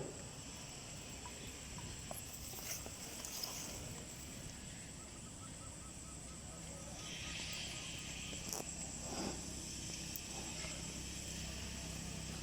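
Quiet outdoor ambience: a steady high-pitched insect drone, with a short run of faint rapid pulses about halfway through and a few soft clicks and rustles.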